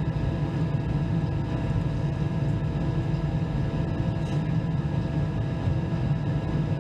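Airbus A319 jet engines and airflow heard inside the cabin: a steady low drone with several thin, constant whining tones over it.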